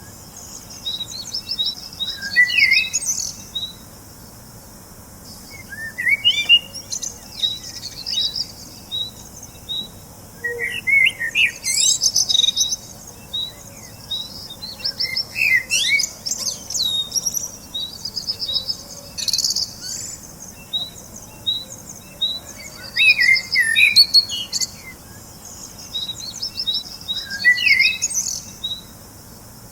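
Small songbirds chirping and singing: phrases of quick high chirps and rapid runs of short notes recur every few seconds, with quieter gaps between.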